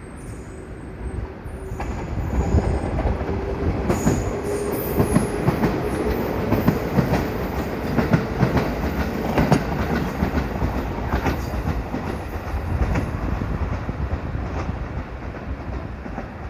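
Kusatsu Line electric train running along the rails, its wheels knocking over rail joints in a clickety-clack, with a thin high wheel squeal in the first few seconds. It grows louder about two seconds in, then runs on steadily.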